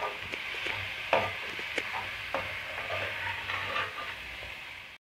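Biryani masala of onion, tomato, mint and curd sizzling in a metal kadai while a metal spatula stirs it, with a few scrapes and clicks of the spatula against the pan. The masala is being sautéed until the tomatoes break down. The sound cuts off abruptly just before the end.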